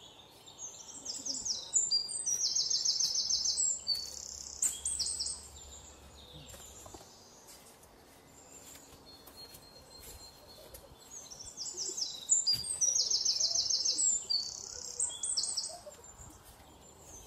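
A small songbird singing two long songs of fast, high trills and rapid repeated notes, one beginning about a second in and the other about twelve seconds in, with quieter woodland background between them.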